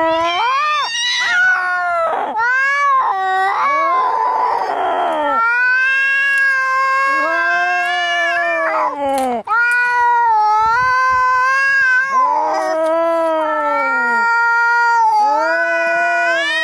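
Angry cats caterwauling, as in a cat fight: long, wavering yowls one after another with hardly a break, and a harsher, raspy stretch about four seconds in.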